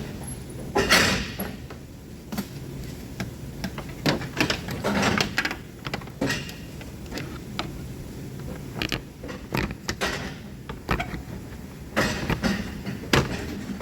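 Hand tools and metal parts being handled in a car's engine bay: scattered knocks, clicks and scrapes, with a few longer scraping sounds about a second in, around five seconds and around ten to twelve seconds.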